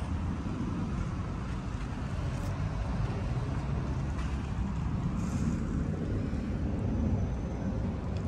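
Steady low rumble of a Proton X70's 1.8-litre turbocharged four-cylinder petrol engine idling.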